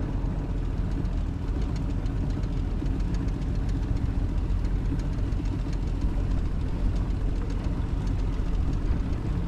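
Boat outboard motor running steadily.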